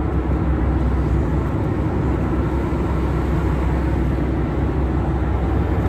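Steady low engine rumble with a noisy hiss over it, holding even throughout.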